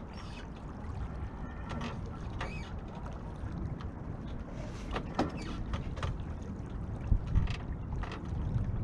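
Wind buffeting the microphone with a steady low rumble, and water splashing and slapping against the hull of a Beneteau First 20 sailboat in short, irregular bursts.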